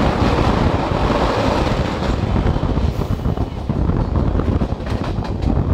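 Indian Railways passenger coach running at speed, heard from its open door: a steady rumble of wheels on rails mixed with heavy wind buffeting the microphone, with a run of quick sharp clicks near the end.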